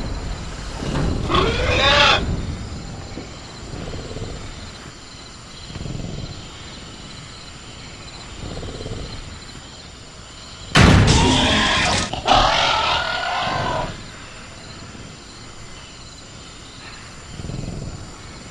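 Designed velociraptor creature vocals: a short growling call about a second in, then a loud harsh screech that starts abruptly about eleven seconds in and runs into a second call, with softer low growls in between. A steady high, thin insect-like drone runs underneath as part of the jungle ambience.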